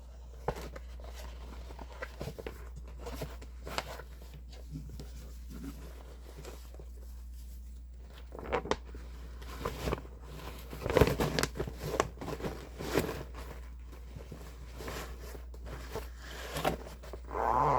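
Rustling and crinkling of stitched fabric and kit packaging being handled, with scattered clicks and taps that are busiest around the middle, over a steady low hum.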